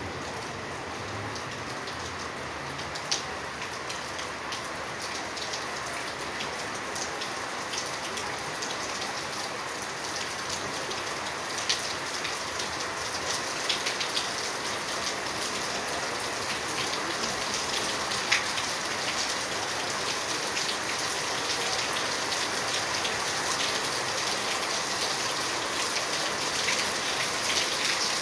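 Steady rain falling, with an occasional louder drop hitting close by. The rain grows gradually heavier.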